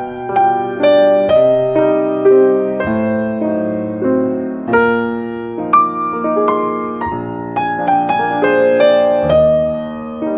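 Soft piano music: a gentle run of single notes over sustained chords, each note struck and fading.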